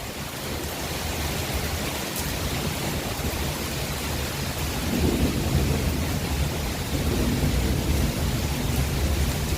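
Heavy rain falling as a steady hiss, with a low rumble underneath that grows louder about halfway through.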